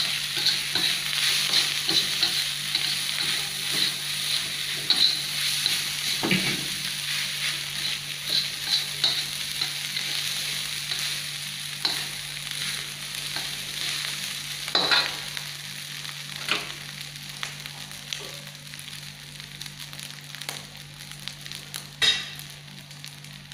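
Fried rice sizzling in a wok as a metal spatula stirs and scrapes through it, with a few sharp clacks of the spatula against the pan. The sizzle slowly dies down.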